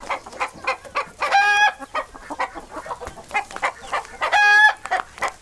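Domestic hen clucking in a rapid run of short clucks, broken twice by a longer drawn-out squawk, about a second in and again past four seconds.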